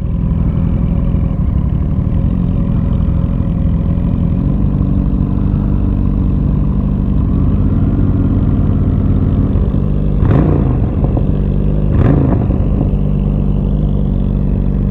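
Honda Shadow 750's V-twin engine running steadily, heard from the rider's seat. Two short, louder sounds come about ten and twelve seconds in.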